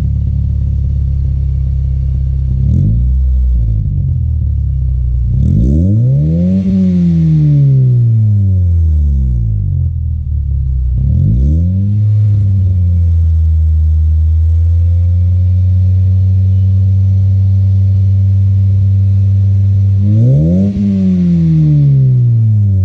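2006 Scion xB's 1.5-litre four-cylinder engine being revved through its exhaust. There is a short blip, then a sharp rev up and back down, another blip, a steady hold at raised revs for several seconds, and a final rev up and down near the end. The exhaust sounds deep.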